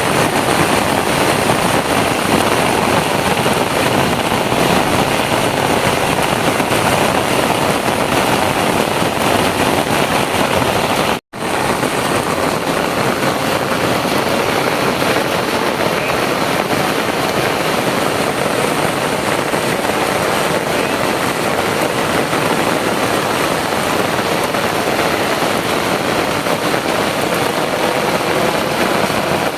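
Heavy rain pouring down, a steady dense hiss that cuts out for an instant about eleven seconds in.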